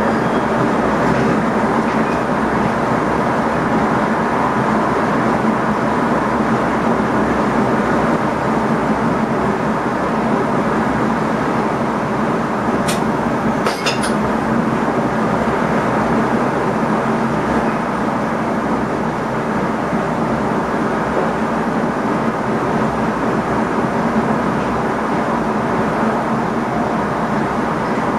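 Steady running noise heard inside the cab of an NS ICM electric multiple unit, with wheels on rails and a constant hum. Two sharp clicks come about halfway through.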